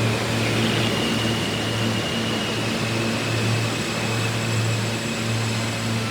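Subway train running: a steady drone with a pulsing low hum and a thin high motor whine that slowly falls in pitch.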